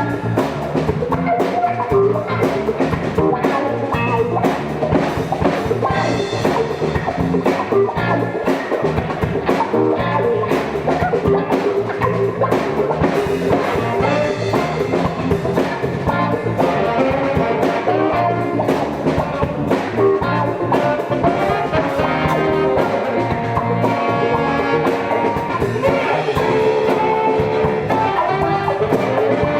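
Live band playing a jazz-funk instrumental, with guitar and drum kit.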